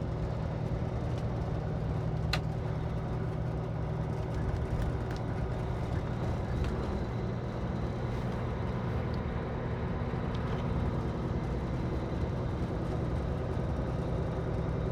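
Semi-trailer truck's diesel engine running steadily under way, heard from inside the cab with road noise, and a faint click about two seconds in.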